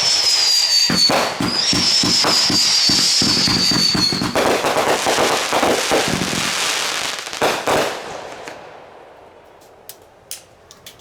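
Consumer fireworks going off in a rapid barrage of bangs and crackle, with two long high whistles falling slightly in pitch over the first four seconds. The barrage dies away about eight seconds in, leaving a few scattered cracks.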